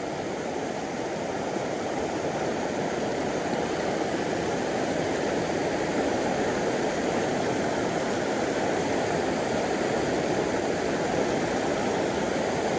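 Steady rushing of a river's current, an even roar without breaks that grows slowly louder.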